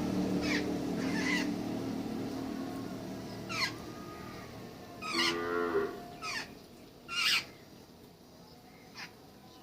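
Birds calling around a backyard feeder: short, sharp calls that drop in pitch come several times, with one harsher, longer call about five seconds in. Under them a low steady hum fades away over the first few seconds.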